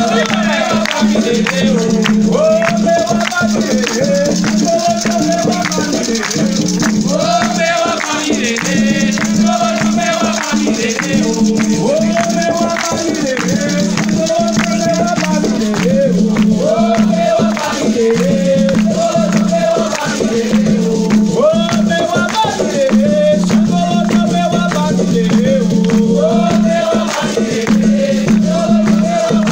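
Afro-Brazilian ritual chant for Xangô, sung as a melody over shaken rattles and percussion that keep up a dense, steady rhythm.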